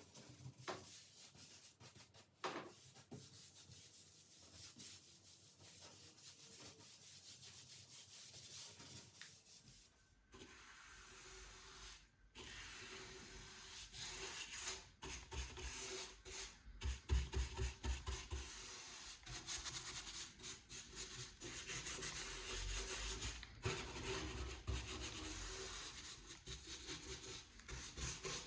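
Repeated rubbing strokes on oak wood, the scratchy sound of hand finishing work. About ten seconds in the sound changes abruptly, and from about fourteen seconds it grows louder with a low rumble underneath.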